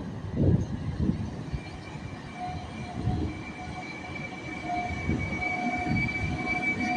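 Train wheels rumbling on the rails, with a steady high-pitched wheel squeal setting in about a second and a half in and holding.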